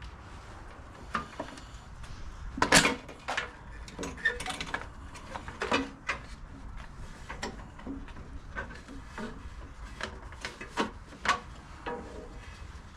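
Irregular clicks and knocks of hand tools and snowblower parts being handled during disassembly, the loudest knock about three seconds in.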